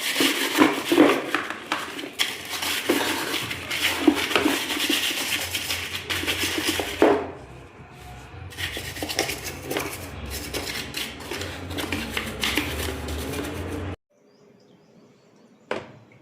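Hard objects clattering and knocking with scraping and rubbing, which stops abruptly about 14 seconds in. One sharp click follows near the end.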